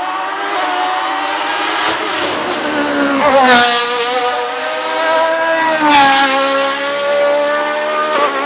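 Race car engine accelerating hard as the car approaches, its pitch climbing. It shifts up twice, about three and a half seconds in and again about six seconds in, each time with a short crack and a drop in pitch.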